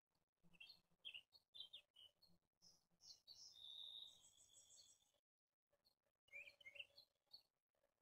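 Faint bird calls: short high chirps through the first few seconds, a longer held high note near the middle, and another quick run of chirps near the end.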